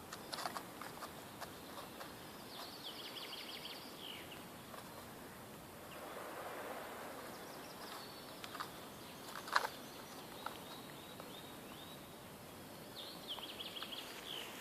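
Quiet forest ambience. A songbird sings a short phrase of quickly repeated high notes about three seconds in and again near the end, over a faint steady hiss, with a few soft clicks and rustles.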